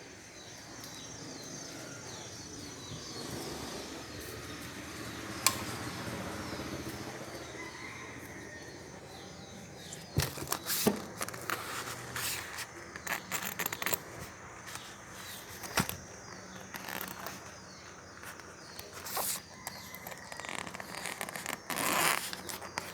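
Small hard objects being handled: a single sharp tick, then from about ten seconds in a run of irregular clicks, taps and short scrapes over a faint steady background.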